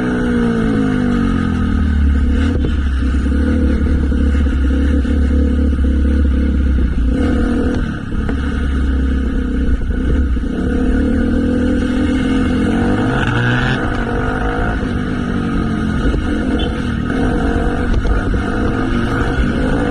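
Motorcycle engine running while riding, its pitch rising and falling with the throttle, over a steady low rumble.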